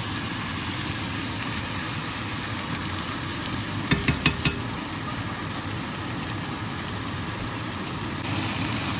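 Onions and tomato sizzling in hot oil in a cooking pan as they sauté, with a few sharp clicks of a spoon against the pan about four seconds in.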